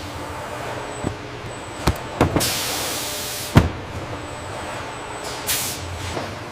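Industrial machinery running with a steady hum. Several sharp clunks and two bursts of air hiss sound over it; the longer hiss ends in the loudest clunk, like a pneumatic actuator venting and striking.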